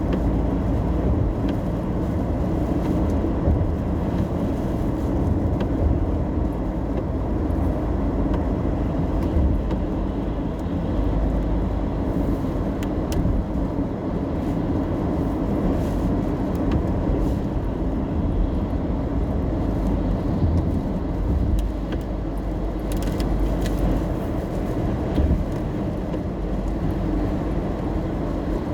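Steady low road and engine rumble heard from inside a car driving in the rain, with a few faint ticks about halfway through and again near the end.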